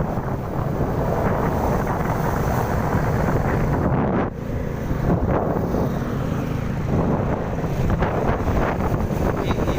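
Wind buffeting the microphone over road traffic, with vehicle engines running. A steady engine hum shows from about four seconds in to about seven.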